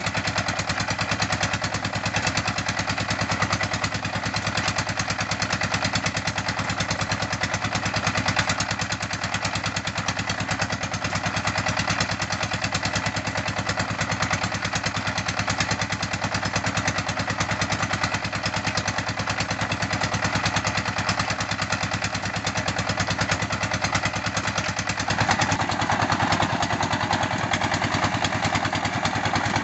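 Engine-driven red-brick making machine running steadily, with a fast, even beat from the engine. About 25 seconds in, a louder, higher-pitched layer joins the running sound.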